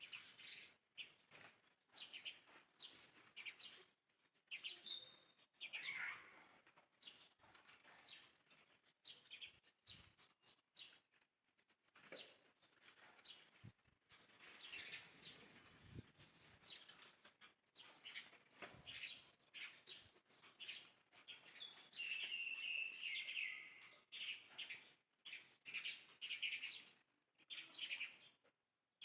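Faint, high-pitched chirps and squeaks from small animals, repeated in short calls, with a longer falling call about three-quarters of the way through.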